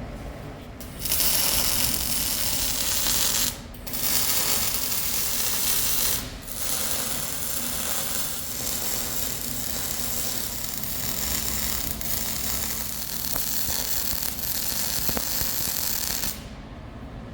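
MIG welding on heavy steel: a steady crackling hiss of the arc in long runs, broken by two short stops early on and ending about a second before the close.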